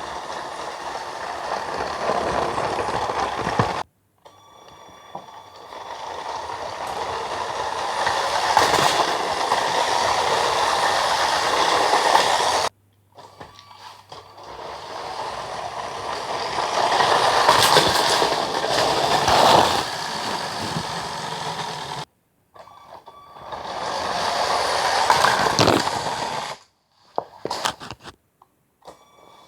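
A toy LEGO City passenger train running along plastic track, getting louder as it comes close and then fading, with faint steady motor tones underneath. The sound is split into several passes by abrupt cuts to silence.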